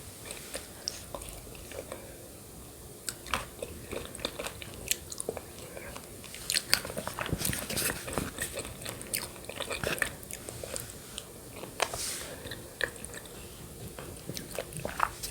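Close-miked eating sounds of yogurt with grated coconut: wet mouth smacks, chewing and small sharp clicks, scattered irregularly.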